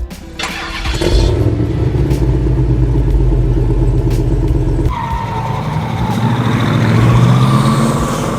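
Dubbed-in car engine sound effect. A loud, steady engine note runs for about four seconds, then a second engine comes in about five seconds in, its pitch rising as it revs before fading near the end.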